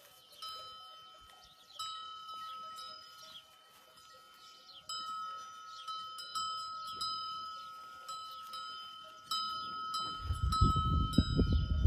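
Goat bells clanking as the goats move, rung about once a second, each ring fading before the next. Near the end a loud low rumble comes in.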